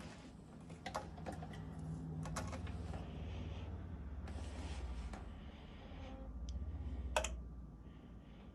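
Starter cranking the cold Kubota B7100 HST's diesel engine after the glow plugs have been cycled: a few clicks, then a low rhythmic churning for about four seconds that ends with a sharp click, the engine not catching.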